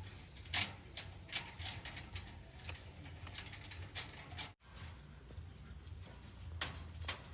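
Scattered sharp knocks and clicks over a low steady hum, the loudest about half a second in and two more near the end.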